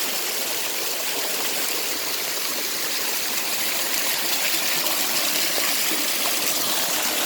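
Steady rush of water from a waterfall and the stream below it, even and unbroken.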